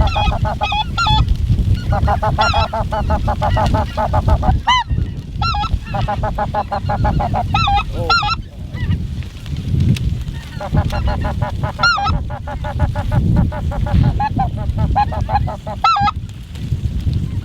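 Snow goose calls: runs of rapid, high-pitched honking chatter in several bursts with short gaps between, over a steady low rumble.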